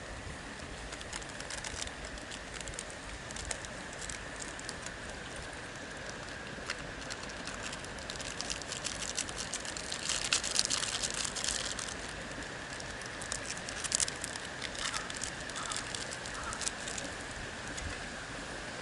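Wood campfire crackling and popping, with a denser flurry of crackles about ten seconds in, over a steady faint hiss.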